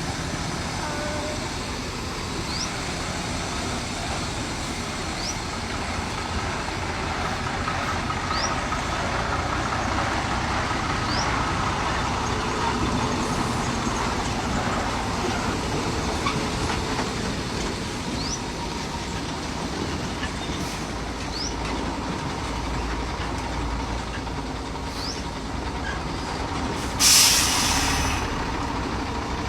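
Heavy diesel machinery running steadily, with faint short rising chirps every two to three seconds. Near the end comes a loud hiss of escaping air lasting about a second.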